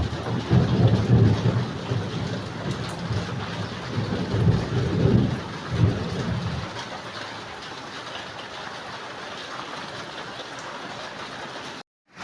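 Steady rain falling, with heavy low rumbling through the first half that stops abruptly just past the middle. The rain then goes on steadily, broken by a momentary dropout near the end.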